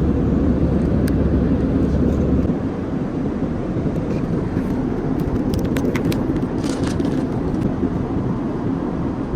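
Steady rumble of a moving vehicle heard from inside, with the deepest part of the rumble dropping away about two and a half seconds in and a few light clicks near the middle.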